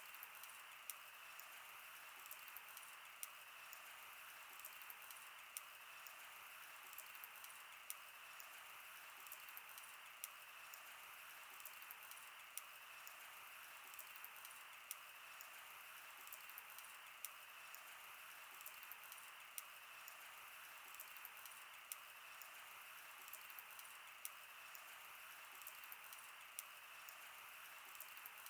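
Wood bonfire burning: a steady soft hiss with sharp pops and crackles at irregular intervals.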